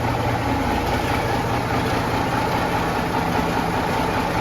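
Case 1175 tractor's turbocharged six-cylinder diesel engine idling steadily in an enclosed garage.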